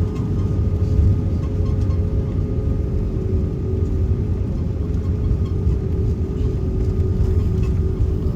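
Airliner cabin noise: a steady low rumble with a droning hum above it, heard from inside the cabin.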